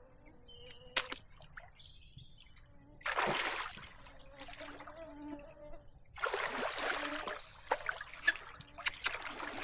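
Water splashing and sloshing in three bursts, with small clicks between them.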